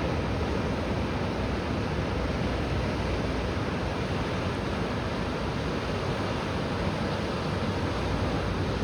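Steady rushing noise of wind buffeting the microphone mixed with moving water, heaviest in the low end, with no distinct strokes or splashes.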